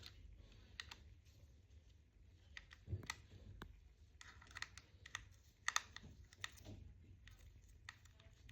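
Faint, scattered small clicks and taps, with a soft thump about three seconds in and a quick run of sharper clicks around the middle.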